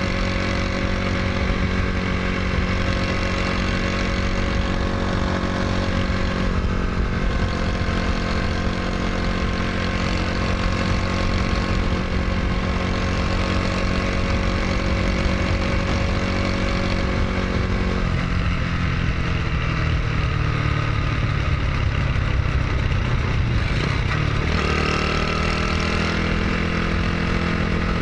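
Honda Super Cub's bored-up single-cylinder engine running steadily. About two-thirds of the way in its speed sags, then picks back up a few seconds later.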